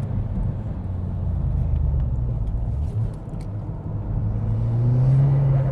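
SEAT Leon Cupra's turbocharged four-cylinder engine under track driving: the engine note drops off at the start, stays low through the middle, then rises steadily as the car accelerates again near the end.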